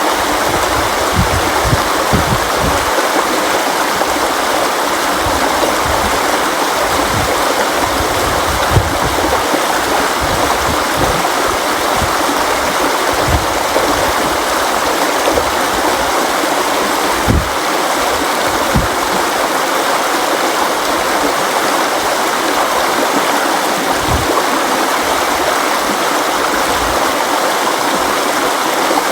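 River water flowing steadily with a dense, even rushing sound, broken by occasional brief low thumps.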